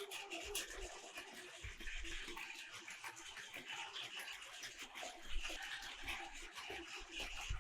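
Battery-powered Plarail toy trains running on plastic track: a steady small-motor whir with many small clicks throughout.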